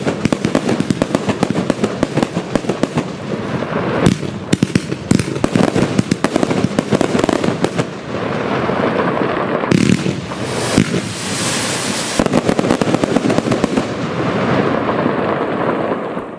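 Pyro Produkt Ultymum firework compound cake (25/30 mm) firing: a dense run of rapid sharp cracks and shots, turning about halfway through into a thicker, almost continuous crackle with hiss, then dying away at the very end as the cake finishes.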